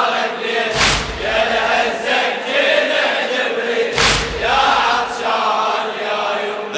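A group of voices chanting a Shia latmiyya lament in unison, with two heavy thumps about three seconds apart, the first just under a second in and the second about four seconds in.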